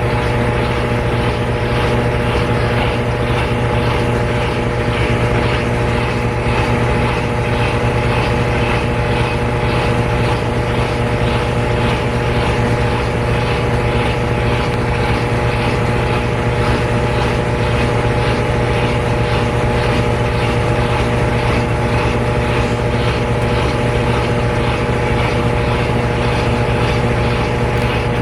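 GE Spacemaker GUD24ESSM1WW laundry center's washer in its final spin: the drum turns at speed with a steady drone and a constant motor hum.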